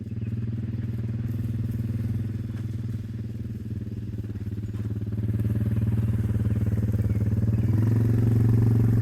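Tractor engine running steadily, getting louder in the second half.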